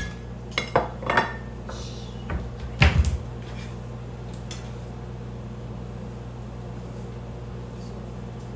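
Microwave oven running with a steady hum. A few kitchen knocks and clatters in the first three seconds, the loudest about three seconds in.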